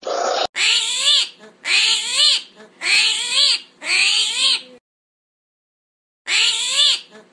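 A short hiss ending in a click, then a series of animal cries played for the armadillo. The cries come about one a second, each rising then falling in pitch; they stop for a second and a half and start again near the end.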